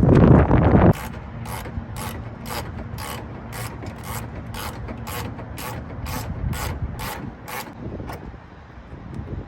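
Hand ratchet wrench clicking in an even run of about two clicks a second for several seconds, as a fastener is turned out during headlight removal. A loud low rush of noise fills the first second.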